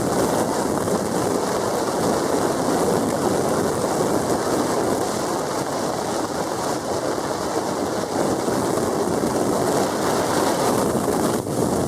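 Steady rushing road noise of a vehicle driving, tyres and wind, with no change in pitch or level.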